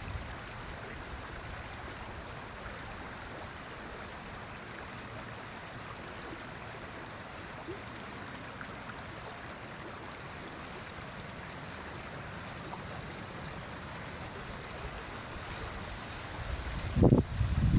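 River water flowing with a steady rush. Near the end, loud, irregular low rumbles of wind buffeting the microphone come in over it.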